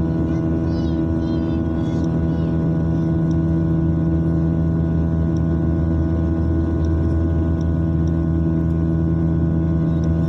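Steady drone of aircraft engines heard inside the passenger cabin during the climb: a constant hum made of many fixed tones under an even rush of air, with a few faint high ticks.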